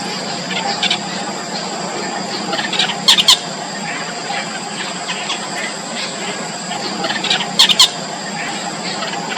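Yellow bittern chicks squealing in the nest, a running string of short high begging calls, with two loud bursts of rapid squeals about three seconds in and near the end.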